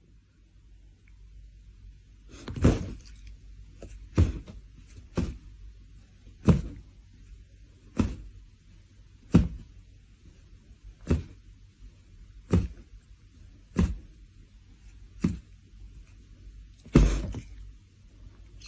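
A series of about eleven sharp knocks or thumps, roughly one every second and a half, over a faint low hum; the first and last are the loudest.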